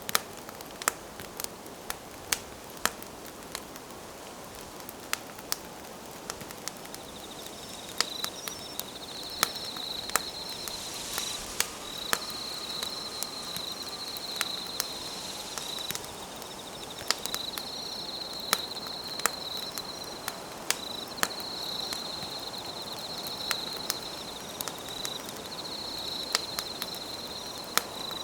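Wood campfire crackling and popping with sharp irregular snaps. From about a quarter of the way in, an insect chirps in a high pulsed trill, in long trains with short breaks.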